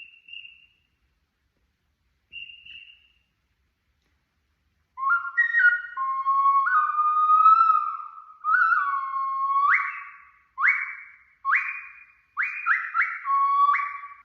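Clay bird whistle being blown. Two short, faint high tweets come first. About five seconds in, a run of loud, clear whistle notes begins, leaping and sliding between a lower and a higher pitch, and ends in a string of short, sharply started notes.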